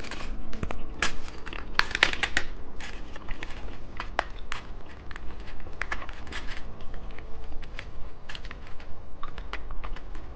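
Plastic candy packaging crinkling as it is handled, with many small irregular clicks and crackles.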